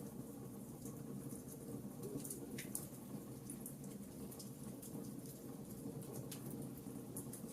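Wood fire in a fireplace crackling: a steady low rumble of burning with scattered sharp pops and snaps, a few louder ones about two to three seconds in and again near six seconds.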